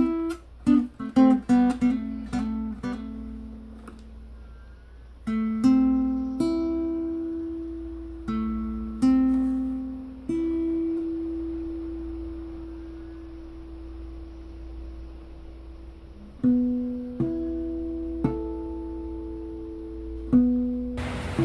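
Background music on a plucked acoustic guitar: a quick run of notes in the first few seconds, then slower single notes and chords left to ring out.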